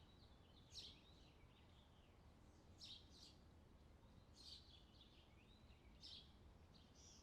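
Faint songbird chirping: four or five short twittering phrases, one every second or two, over a low steady background hiss.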